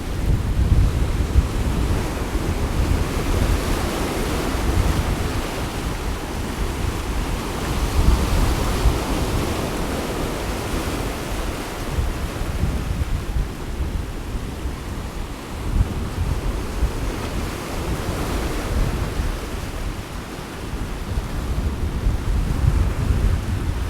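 Sea waves washing on the shore with gusting wind buffeting the microphone; a steady rushing noise that swells and eases in gentle surges.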